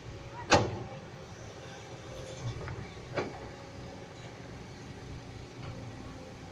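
Excavator engine running steadily at work, with sharp knocks: a loud one about half a second in, another about three seconds in, and a few fainter ones.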